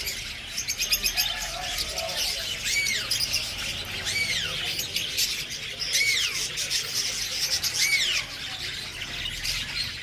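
Many caged birds, lovebirds among them, chirping and squawking together, with one shrill call that rises and falls in pitch repeated about every two seconds.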